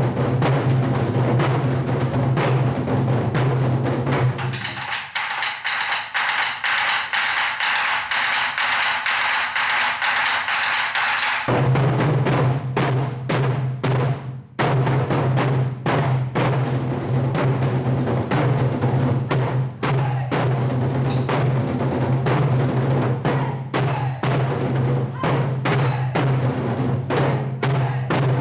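Korean samulnori percussion ensemble drumming in fast, dense strokes over a steady low drum resonance. Around a sixth of the way in, the low drumming drops out for several seconds under a bright hissing wash, then the full drumming returns.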